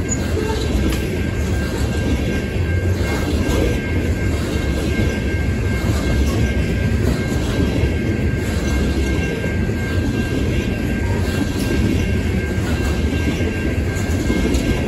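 Loaded coke hopper cars rolling past on the rails: a steady rumble of steel wheels on track, with a faint thin high whine held throughout.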